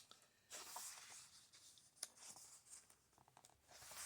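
Faint rustle of book pages being handled and turned, with soft papery swishes and a light tap about two seconds in.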